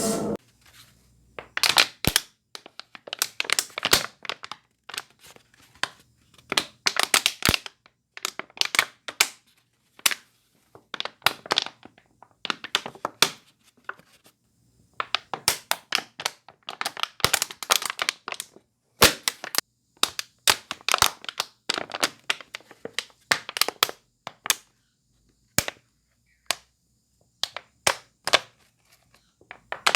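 Irregular clusters of sharp crackling and crunching snaps with short pauses between them: a home-made foley effect for a hand groping and creeping along.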